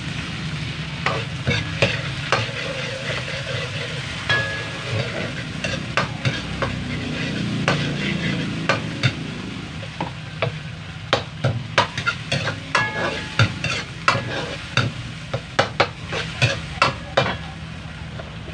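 Canned sardines in tomato sauce frying in a wok with caramelized spices, sizzling, while a metal ladle stirs and clinks against the pan. The clinks come quicker, about two a second, in the second half.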